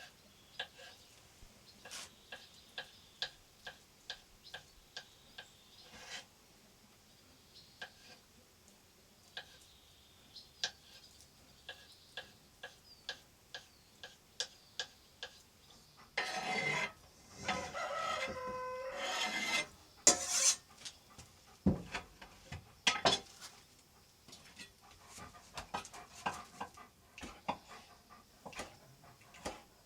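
Knife chopping on a wooden cutting board: a long series of light, quick knocks, several to a second at times. A louder, noisier stretch with some steady tones breaks in about sixteen to twenty seconds in.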